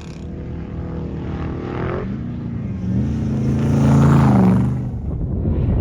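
Off-road race truck engine revving hard as the truck runs at the dune jump. The pitch climbs, drops about two seconds in, then climbs again to its loudest about four seconds in before falling away.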